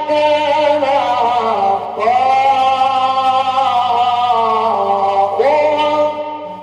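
Male Quran reciter chanting in the slow, ornamented mujawwad style, holding long melodic notes with turns in three phrases, with short breaths about two seconds in and near the end. A steady low hum runs under the old recording.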